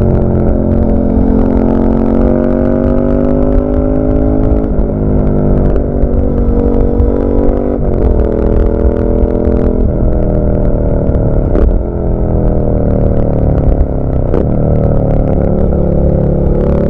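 2023 Suzuki SV650's V-twin engine through an SC-Project carbon oval silencer with its dB killer fitted, under way on the road. The engine note climbs and then drops sharply several times, as through gear changes.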